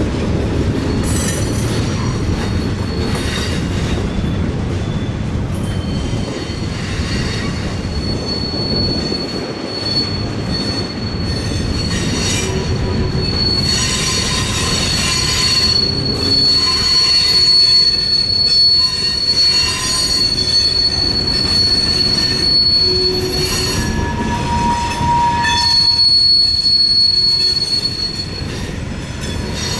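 Freight cars of a slow mixed freight train rolling past. Their steel wheels rumble steadily on the rails with scattered clicks, and a high, sustained wheel squeal sets in about eight seconds in.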